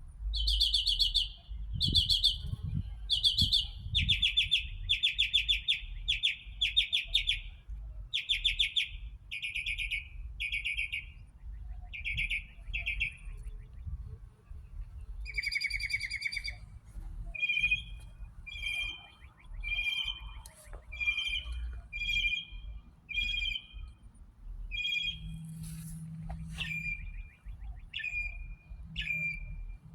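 A songbird singing a string of trilled phrases. It repeats each phrase several times before switching to a new one, then moves on to short two-part chirps about once a second, over a low background rumble.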